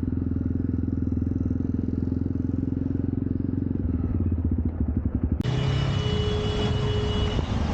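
Jawa Perak single-cylinder motorcycle engine and exhaust running on the move, with uneven firing pulses just before it changes. About five seconds in the sound switches abruptly to a loud, steady rushing hiss.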